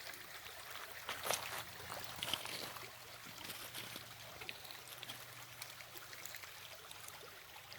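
A small brook running and trickling steadily, with a couple of short sharp clicks over it about a second and two seconds in.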